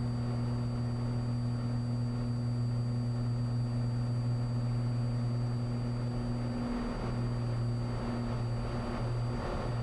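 Cessna 182 Skylane's six-cylinder engine and propeller at full takeoff power, a steady drone on the takeoff roll; the pitch wavers slightly about seven seconds in.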